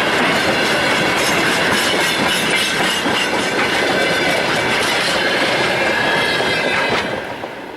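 Freight train wagons rolling past on the rails, wheels clacking over the rail joints, with a thin steady whine above the rumble. The sound fades away about seven seconds in.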